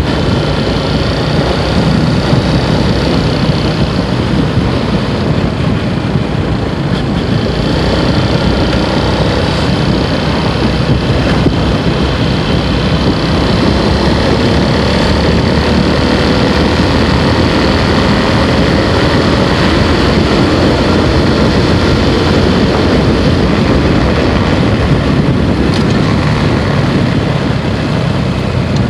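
Motorcycle running along the road while being ridden, a loud steady rush of engine and road noise, with the engine's tone rising slowly about halfway through.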